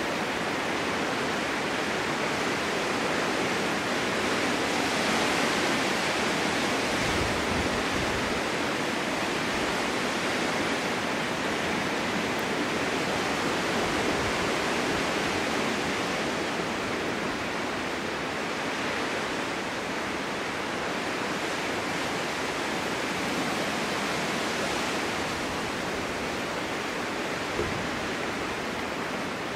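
Snowstorm wind blowing through a snow-covered forest: a steady, dense hiss that swells and eases in slow gusts, with a few brief low rumbles.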